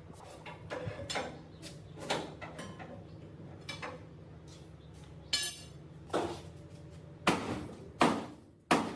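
Metal hand tools clanking and knocking against the rusted steel of a truck chassis during teardown: irregular clinks and strikes, one ringing about five and a half seconds in, and three sharp knocks near the end that are the loudest.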